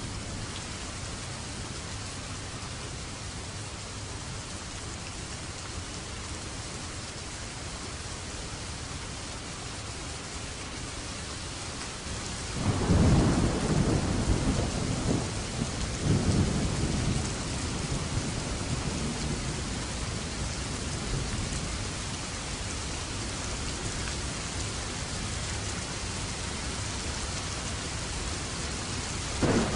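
Steady heavy rain hissing, with a thunder crack about twelve seconds in that rolls on as a low rumble in two surges before fading over several seconds. Another sudden thunder jolt comes right at the end.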